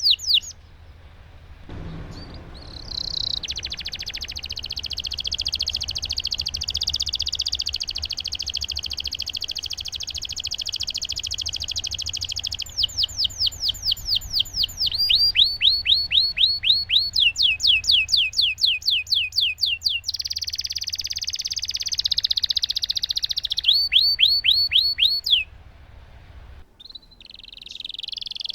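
Domestic canary singing long rolling trills, held phrases alternating with runs of rapid falling notes about four a second.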